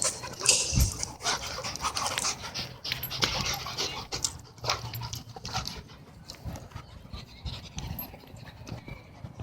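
Dogs panting, with scuffling and brushing noises from their play, busier in the first half and calmer toward the end.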